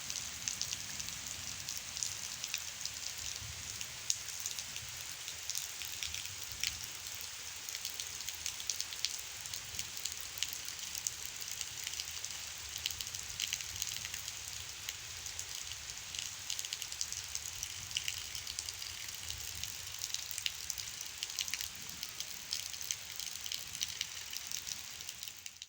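Heavy rain falling steadily, a dense crackling patter of drops hitting a surface over a low rumble. It cuts out abruptly right at the end.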